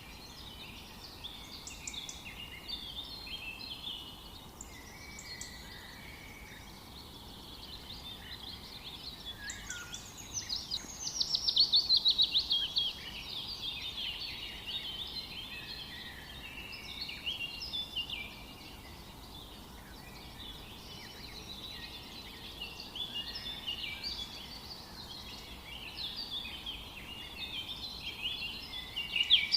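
Several songbirds singing at once, a dense run of overlapping short chirps and warbles. About ten seconds in, one loud rapid trill sweeps down in pitch, the loudest sound here.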